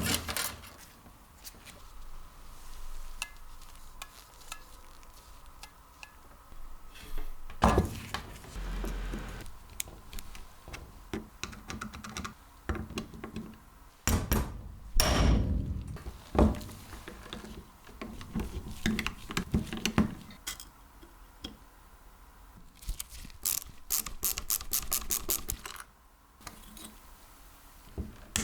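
Hands working on metal tool parts: scattered clicks, knocks and clatter, with a quick run of regular clicks for a few seconds near the end.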